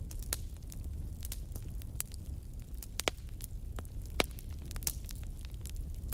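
Campfire crackling: irregular sharp pops and snaps of burning wood over a steady low rumble of the flames, with two louder pops about three and four seconds in.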